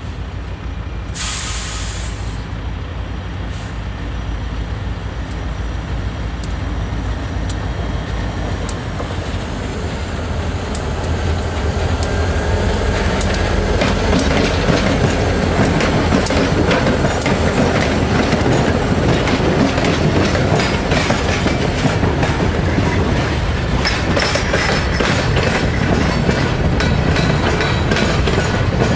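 Dubbed-in diesel freight train sound: a locomotive's low engine hum grows louder as it approaches, then wheels click steadily over rail joints as the freight cars roll past. There is a brief hiss about a second in.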